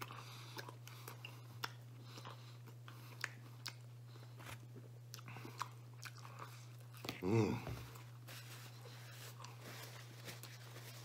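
A man chewing pizza crust close to the microphone, with small crunches and wet mouth clicks. About seven seconds in comes a short voiced sound from him, the loudest moment.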